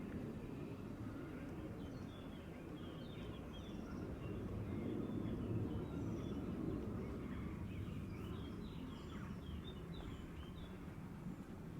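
Small birds chirping, with clusters of short high chirps about three seconds in and again about eight seconds in, over a steady low outdoor rumble.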